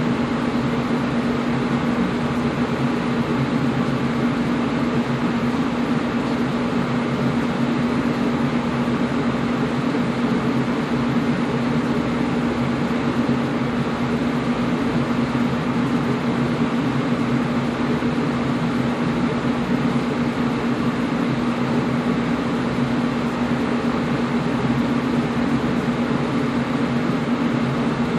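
Air conditioner running steadily: an even rushing noise over a constant low hum.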